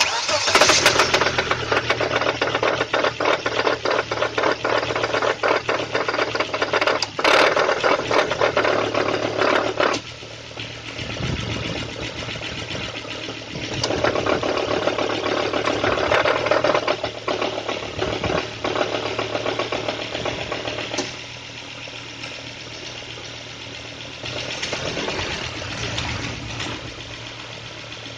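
Volvo S80 engine idling cold with a fast, dense knocking. The knocking gets louder and quieter several times as the automatic transmission is shifted between Drive, Neutral and Reverse.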